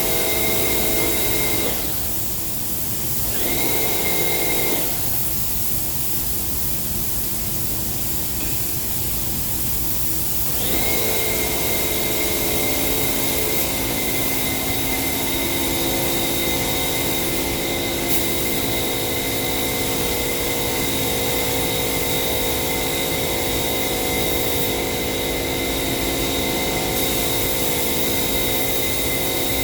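Spray-painting equipment running: a steady machine hum under a high whistling hiss of air, which stops briefly about two seconds in and again for about six seconds from about five seconds in.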